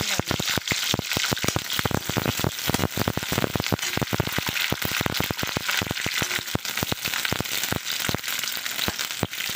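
Chunks of green capsicum sizzling and crackling in hot oil in a steel kadai, stirred with a metal spatula as they are part-roasted. The crackles come thick and steady throughout.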